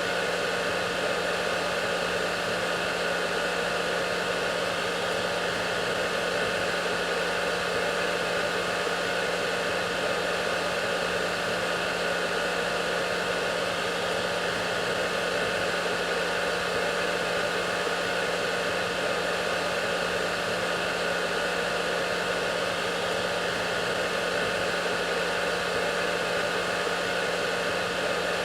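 Electric hair dryer running continuously: a steady rush of air with a low motor hum and a faint, steady higher whine, unchanging throughout.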